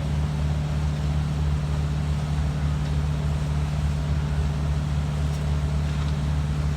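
A machine running with a steady, unchanging low drone.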